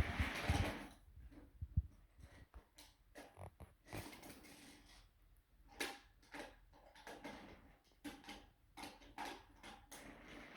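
Scattered light clicks and knocks of toy trains and track pieces being handled and moved, a few louder taps among them.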